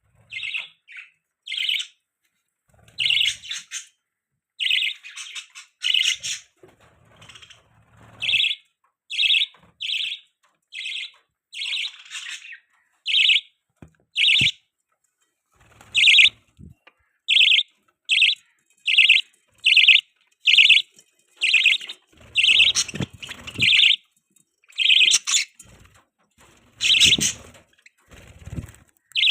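Budgerigars chirping: a steady run of short, high chirps, roughly one or two a second, with a few faint low thumps in the second half.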